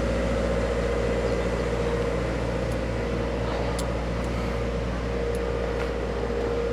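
A machine running steadily: a constant drone with a held mid-pitched tone over a low hum, and a few faint ticks.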